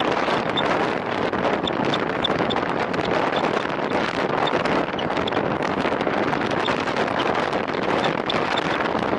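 Steady wind rush over the microphone of a camera carried on a road bicycle at time-trial speed, with faint scattered high ticks.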